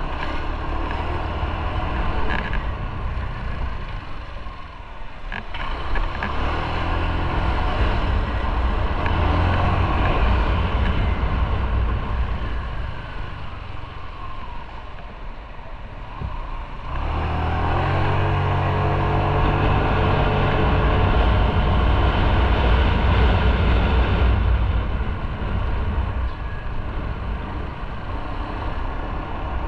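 Motorcycle engine running while riding, with road and wind noise. It eases off about five seconds in and again around fifteen seconds, then pulls back up to a steady, louder run.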